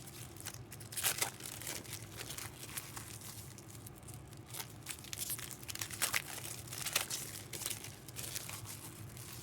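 Packaging being crinkled and torn open by hand, a run of irregular sharp crackles and rustles.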